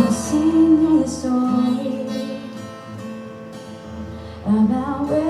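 Live acoustic song: a singer holds long notes and slides between them over acoustic guitar. The music softens in the middle and swells again near the end.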